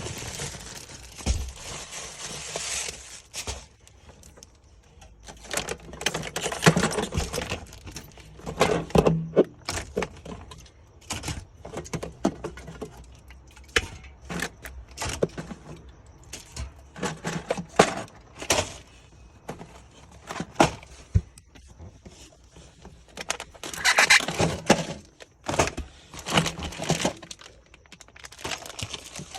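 Irregular clicks, knocks and rustling of objects being handled, with a hiss over the first couple of seconds.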